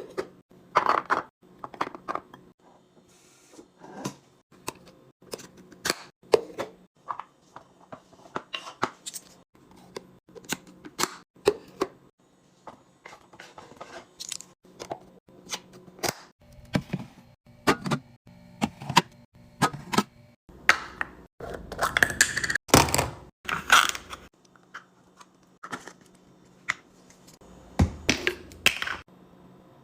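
Many short clicks, clacks and crinkles of food packaging and plastic containers being handled and set down, with a busier, louder stretch of rustling and knocking a little past the middle.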